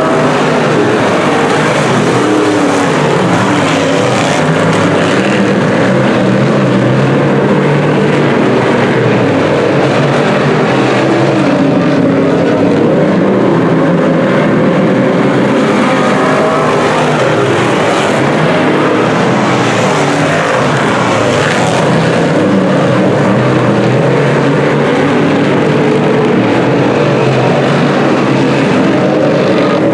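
Several dirt-track Sportsman race cars' V8 engines running loud and continuous through a heat race, their overlapping pitches rising and falling as cars accelerate and pass.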